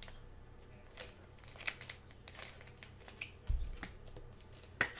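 Trading cards being handled and sorted by hand: scattered soft clicks, slides and crinkles of cards and plastic holders, with a low thump about three and a half seconds in and a sharper click near the end.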